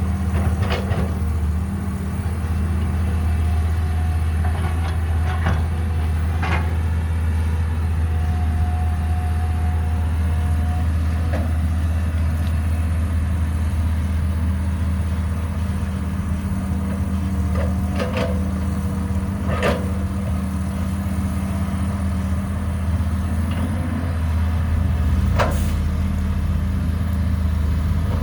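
Caterpillar 312B hydraulic excavator's diesel engine running with a steady low hum, with a few sharp metallic clanks now and then. The engine grows a little louder about three-quarters of the way through.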